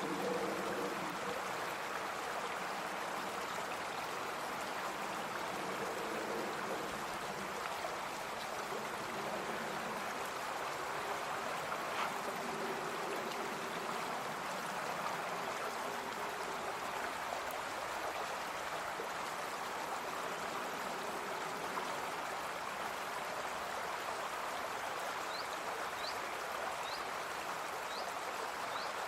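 Brook running in a steady rush of water, with some lower gurgling in the first half and a few short high chirps near the end.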